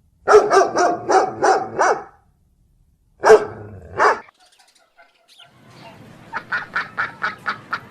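A dog barking in a quick run of about six barks, then two more barks after a short pause; near the end comes a quieter rapid series of short sharp calls.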